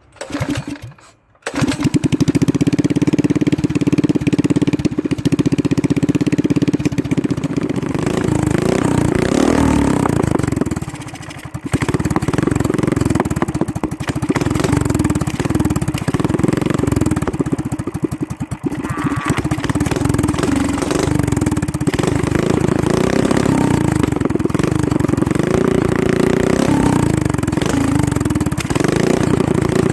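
196cc single-cylinder four-stroke small engine with a freshly rebuilt cylinder head, starting after a short first burst and then running and revving up and down, its speed dipping briefly about a third of the way through. The carburettor is still poorly tuned.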